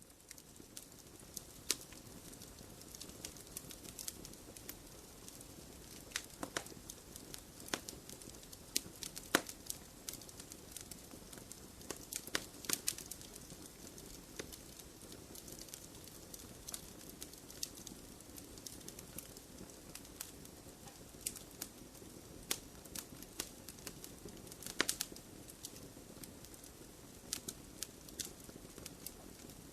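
Wood fire crackling in a fireplace: a steady soft hiss broken by irregular sharp pops and snaps from the burning logs.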